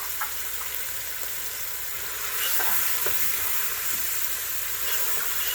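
Chicken with onion and ginger sizzling in a pot, a steady frying hiss with a few light clicks of stirring; the sizzle grows louder a little over two seconds in.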